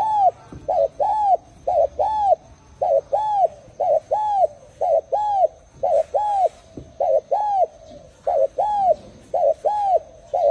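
Spotted dove cooing: a short note followed by a longer arched coo, repeated in an even rhythm about once a second.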